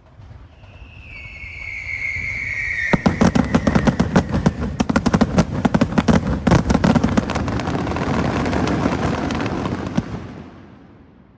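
Fireworks: a whistle gliding down in pitch, then a rapid crackling volley of many sharp bangs for about seven seconds over a low rumble, fading out near the end.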